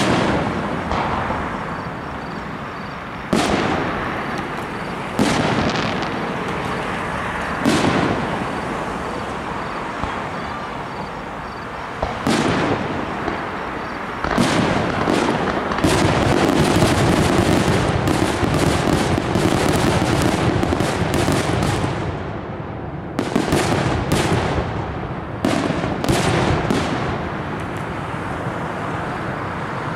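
Aerial firework shells bursting overhead, a single bang every few seconds at first. About halfway through comes a dense run of rapid bangs and crackle lasting several seconds, then a few more separate bursts.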